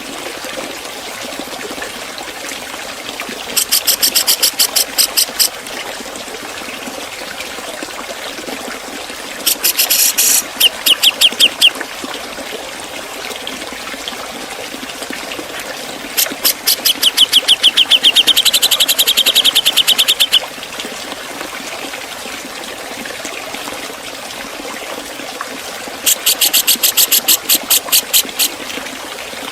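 Grey-cheeked bulbul (cucak jenggot) giving four bouts of rapid, sharp, high-pitched repeated notes, the fast 'ngepik' chatter used as training song for cagebirds, over a steady background hiss.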